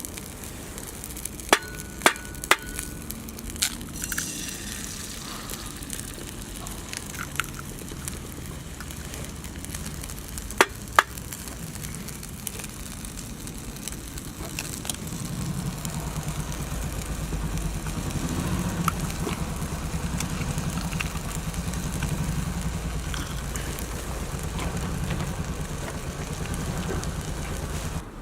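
Wood fire crackling, with a few sharp pops. A low steady rumble comes in about halfway through.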